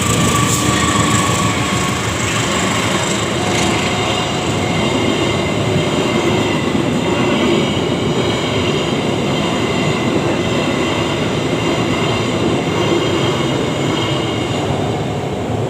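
Kaligung passenger train rolling past at close range: a steady, loud rumble of wheels on rail, with high steady squealing tones from the wheels over it.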